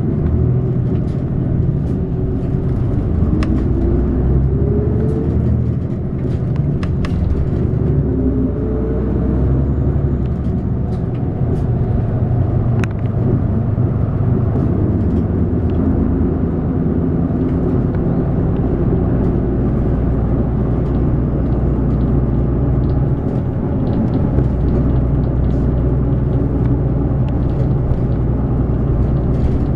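Inside a city bus under way: engine running and road noise, the engine's pitch rising twice in the first ten seconds as the bus accelerates. Light clicks and rattles from the cabin now and then.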